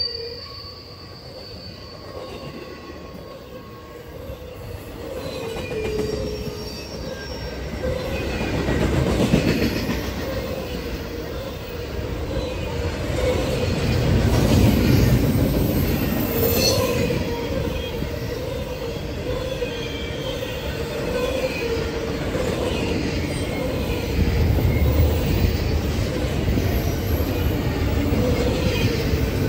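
Norfolk Southern freight train rolling past with a continuous rumble that grows louder about eight seconds in. The steel wheels squeal on the rail throughout, in high, shifting tones.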